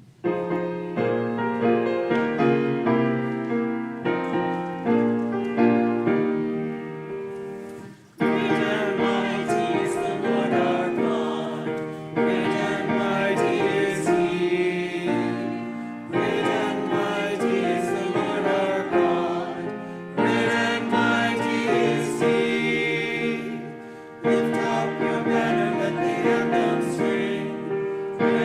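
Church music after the benediction: a choir singing with piano, in phrases that each start strongly and fade, about every four seconds.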